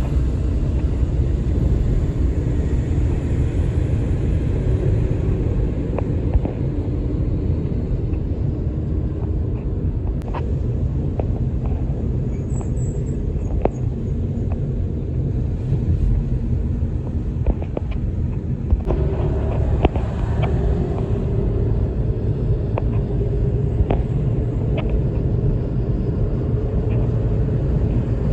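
Steady low rumble of vehicle traffic on a multi-lane highway, with a few faint clicks.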